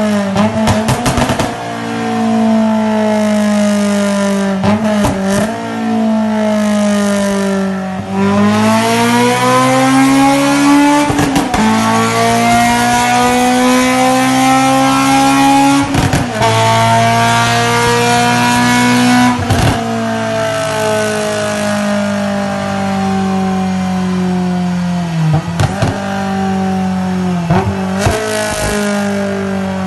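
Honda S2000's four-cylinder engine through a Varex exhaust, pulling hard under acceleration: the engine note climbs and sags in long pulls, broken by brief breaks several times as it shifts gear.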